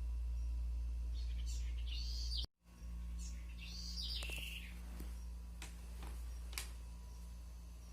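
Birds chirping in two short runs of rising-and-falling notes over a steady low hum, with a brief drop to silence about two and a half seconds in and a few sharp clicks later.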